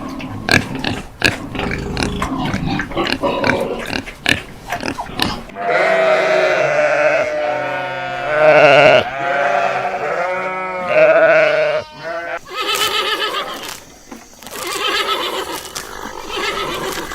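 Farm animals calling. Rough, noisy sounds with sharp clicks come first; from about five seconds in they give way to a run of pitched, wavering calls.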